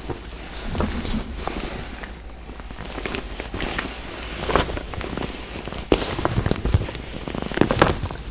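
Tapping on and handling a makeup bag close to the microphone: irregular clicks and knocks, with a few louder ones near the end.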